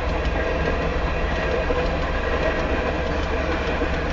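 Freight train hopper cars rolling past, a steady rumble of steel wheels on rail with faint clicks.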